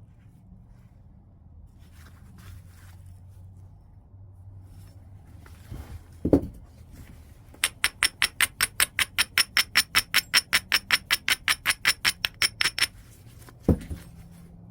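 Large piece of white chert being knapped: a dull knock about six seconds in, then a quick, even run of about thirty sharp, ringing ticks over some five seconds, and another knock near the end.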